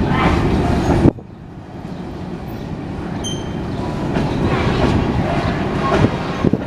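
Long empty coal train rolling on the rails, wheels clattering over the track. About a second in the sound cuts off suddenly, and a quieter rail rumble then builds steadily.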